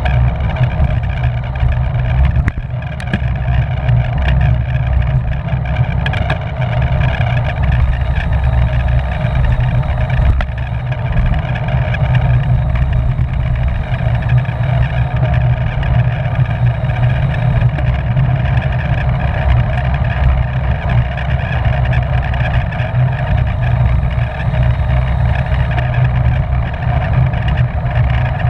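Road bicycle riding at race speed: steady wind rush on a rider-mounted camera's microphone with a constant hum of tyres and drivetrain.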